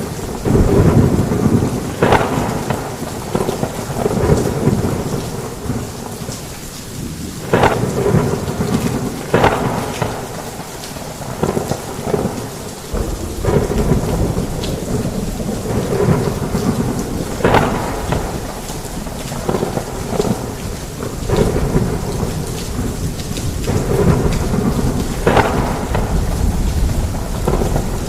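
Heavy rain falling steadily under a continuous low rumble of thunder, which deepens about halfway through. Sharp cracks cut in every few seconds.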